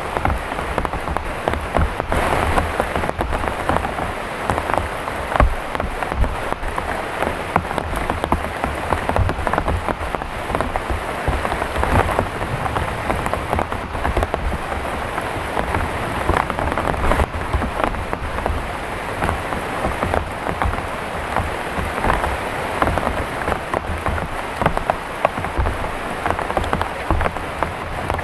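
Heavy rain falling steadily, with a dense patter of drops striking close by.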